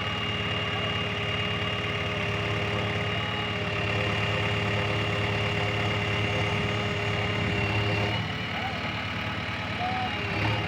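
Heavy diesel engine running steadily, with a thin high-pitched whine over it. Its note shifts slightly about eight seconds in.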